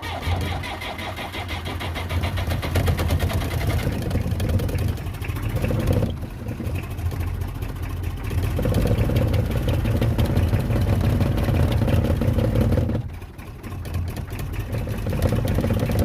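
IMT 539 tractor's three-cylinder diesel engine cold-started at −9 °C after glow-plug preheating: it cranks and catches, then runs roughly, with the revs sagging briefly about 13 seconds in and picking up again.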